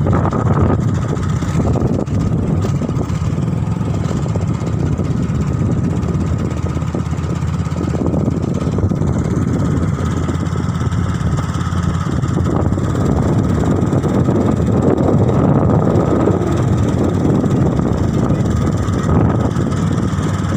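Motor vehicle engine and road noise, running steadily with no change in pace.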